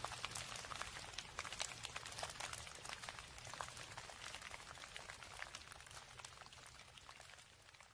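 Rain falling, a dense spray of fine drop ticks over a soft low rumble, gradually fading out.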